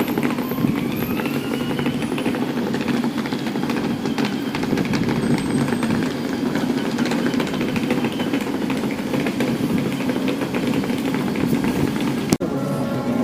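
Steady outdoor street noise with traffic, a faint rising whine in the first couple of seconds; the sound cuts off abruptly near the end.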